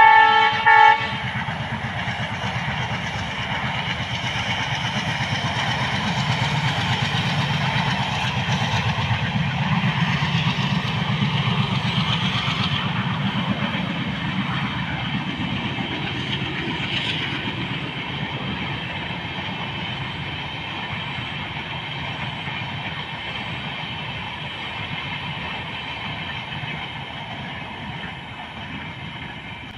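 A diesel locomotive's horn sounds in two short blasts at the start. Then the ALCO diesel-hauled express passes, the engine and the LHB coaches' wheels on the rails making a deep rumble that builds, peaks and slowly fades as the train moves away.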